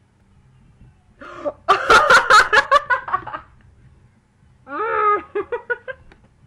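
A woman laughing in two bouts: a loud burst of rapid laughs starting about a second in, then a shorter bout near the end.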